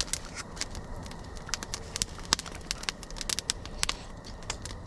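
Birch-wood campfire crackling, with irregular sharp pops over a low hiss.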